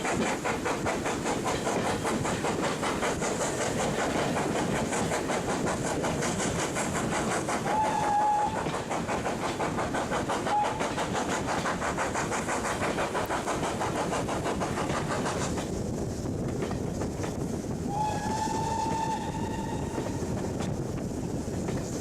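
Steam locomotive working a train, heard from a carriage window: a rapid, even exhaust beat over the running of the wheels on the rails. The whistle sounds briefly twice, then gives a longer blast of about two seconds near the end. The beat softens about two-thirds of the way through.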